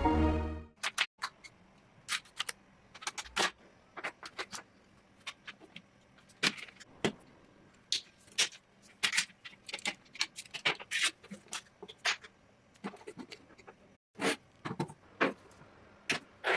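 Irregular small clicks and rattles of metal and plastic parts as a diecast toy car model is handled, with a cluster of louder clicks near the end. Music stops about a second in.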